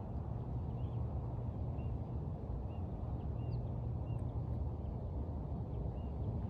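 Small birds giving short, scattered chirps, faint above a steady low rumble that is the loudest sound.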